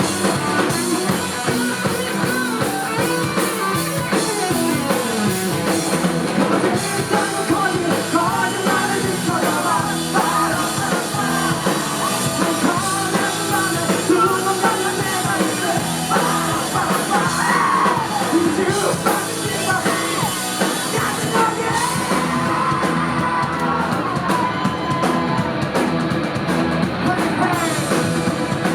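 Rock band playing live, drums and electric guitar under a sung lead vocal. The bright, hissy top of the mix falls away about two-thirds of the way through.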